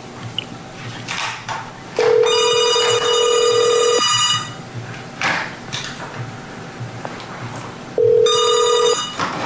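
Telephone ringing in the standard two-seconds-on, four-seconds-off cadence. There is one full two-second ring, then a second ring about four seconds later that stops after about a second.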